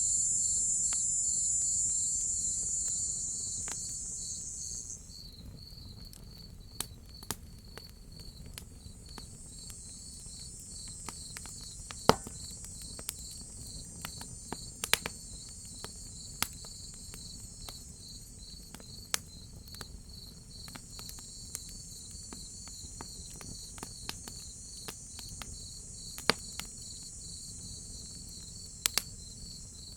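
Crickets chirping in a steady, even pulse, with a loud high insect drone that cuts off suddenly about five seconds in. A wood fire crackles throughout with scattered sharp pops, the loudest about twelve seconds in.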